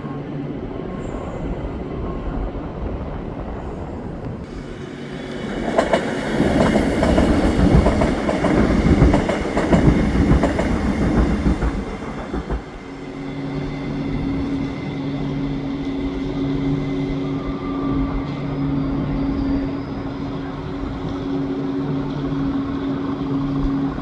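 A train passing on the tracks, wheels clattering over the rails for about seven seconds. A steady low hum with a slowly pulsing tone follows.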